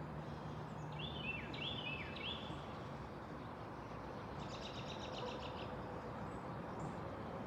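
A songbird singing: three quick repeated notes, each a sharp high note dropping to a lower hook, then a few seconds later a short buzzy trill, over a steady background hiss.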